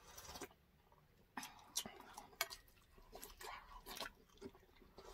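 Quiet close-up chewing and mouth sounds of people eating, a string of short, irregular smacks and clicks.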